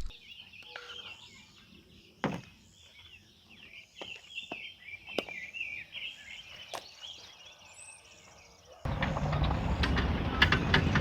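Birds chirping and singing, many short overlapping calls, with a few sharp clicks among them. Near the end it cuts suddenly to a louder, steady rushing noise.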